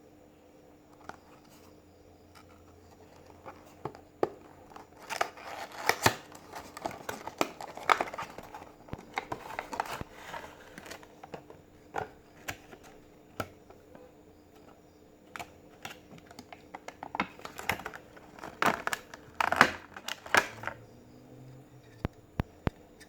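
Packaging of a USB charger being opened and handled: crinkling, tearing and scattered clicks, busiest about five to eleven seconds in and again around eighteen to twenty seconds in.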